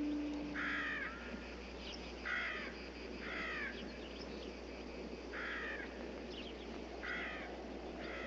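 A bird calling: six short calls at uneven intervals, over a steady background hiss.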